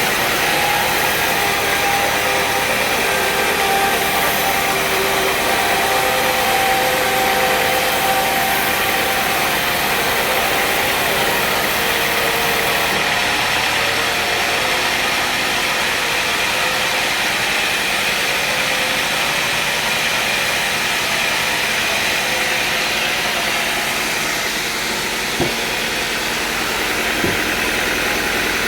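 Sawmill engine running steadily, with two brief knocks near the end.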